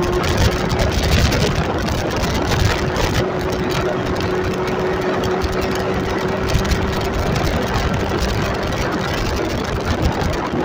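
Motorcycle engine running at a steady note while riding, under a dense, even rush of noise.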